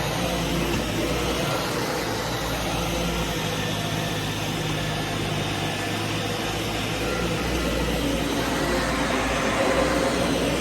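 Vacuum cleaner running steadily, a constant motor drone with the hiss of rushing air.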